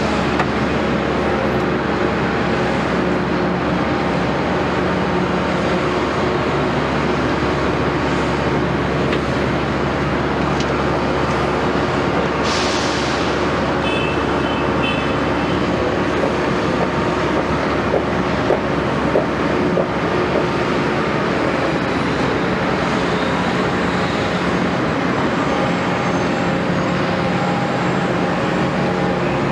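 Diesel engine of a Caterpillar 329E hydraulic excavator running steadily, with a brief hiss about twelve seconds in and a short high beep soon after.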